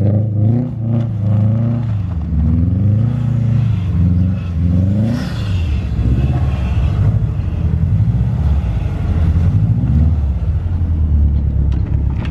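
Subaru WRX STI's turbocharged flat-four revving up and down in repeated swells as the car powerslides in the snow.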